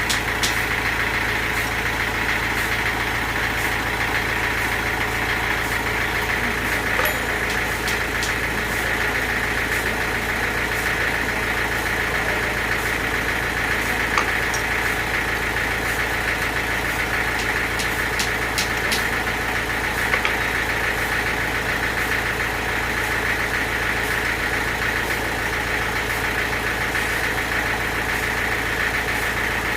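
Sawmill machinery running steadily, an even mechanical drone with a few light clicks and knocks scattered through it.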